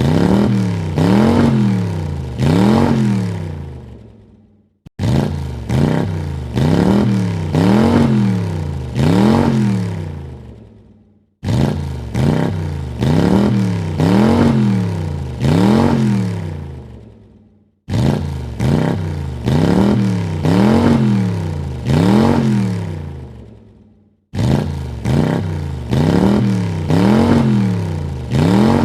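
Car engine revving in quick throttle blips: each burst starts abruptly, rises and falls in pitch four times, and dies away. The same rev sequence repeats about every six and a half seconds, four times over and then a fifth.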